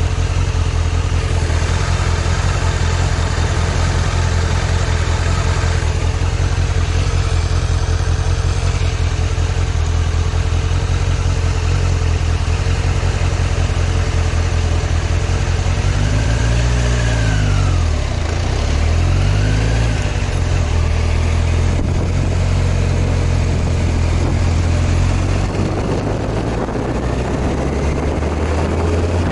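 Kawasaki ZZR1100 inline-four engine running steadily, then revved twice in quick succession about two-thirds of the way through, the revs rising and falling each time. Near the end a rushing wind noise comes in over the engine.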